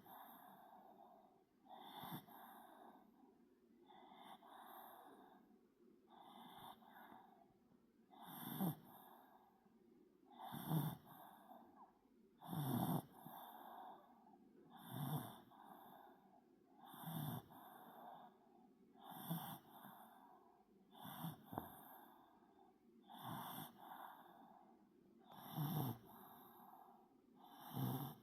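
A Pomeranian snoring steadily while fast asleep, one soft snore about every two seconds.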